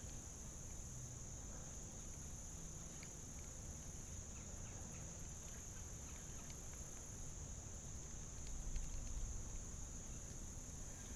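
Steady, high, continuous buzz of an insect chorus, with a faint low rumble underneath.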